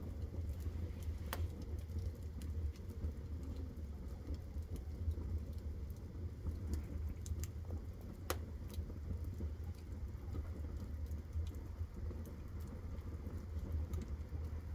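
Wood fire burning in a stove, with scattered sharp crackles and pops over a steady low rumble.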